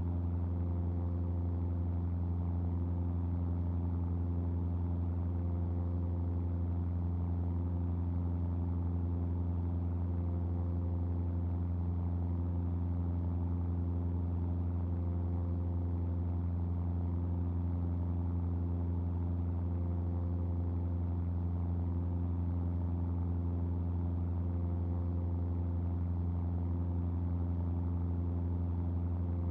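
Cessna R182 RG's six-cylinder Lycoming O-540 engine and propeller running steadily in cruise flight: an even, deep drone that holds pitch with no change in power.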